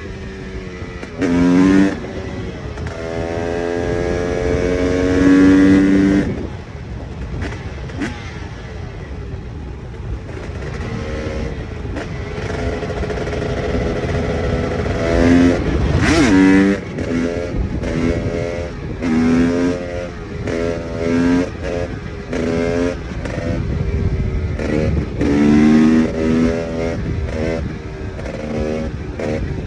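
KTM EXC 300 two-stroke enduro motorcycle engine being ridden, revving up with rising pitch and cutting the throttle again and again: one longer pull early on and many short throttle bursts in the second half. A steady rush of wind and tyre noise runs underneath.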